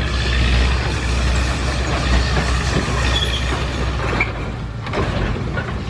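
Heavy diesel earthmoving machinery running with a deep, steady engine rumble, and a few short high squeaks about three and four seconds in.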